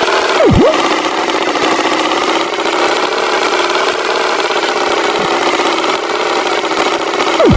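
Tractor engine running steadily, a looping sound effect, with a quick swooping pitch-dip effect about half a second in and again near the end.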